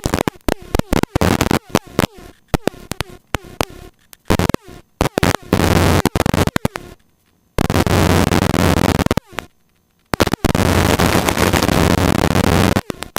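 Harsh static-like noise on the cockpit intercom/radio audio, cutting in and out in rapid choppy bursts with short silent gaps between them.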